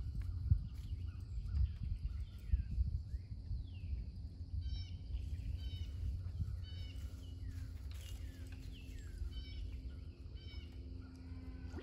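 Wild songbird calling, a short trilled phrase repeated every two seconds or so, with a few other downward-sliding bird chirps between, over a steady low rumble with a couple of thumps near the start.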